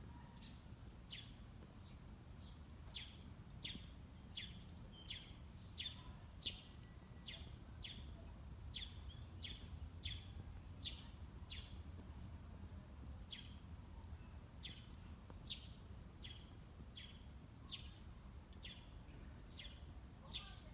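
A bird calling over and over: short, high chirps that slide downward, about one or two a second, over a steady low rumble.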